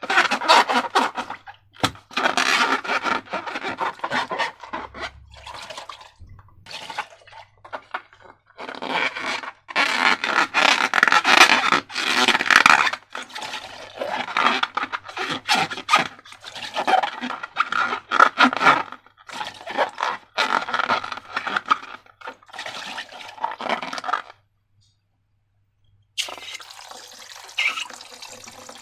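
Wet, sticky slime being mixed and squished by hand, a liquid scraping and squelching in irregular bursts with short pauses. It drops out completely for about two seconds near the end, then carries on more quietly.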